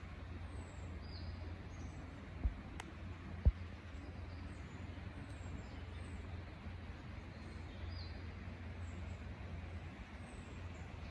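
Faint, high, thin bird chirps, short falling notes every second or so, over a steady low rumble. Two soft low thumps come about two and a half and three and a half seconds in.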